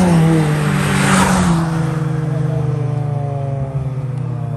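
A drag-racing car passing at speed. Its engine note drops in pitch as it goes by, with a rush of noise about a second in, then settles to a steadier, lower drone as it moves away down the strip.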